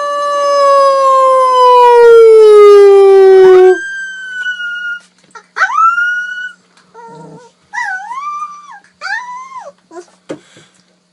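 A dog howling: one long howl that slowly falls in pitch and breaks off about four seconds in, followed by several short, higher whining calls with brief gaps between them.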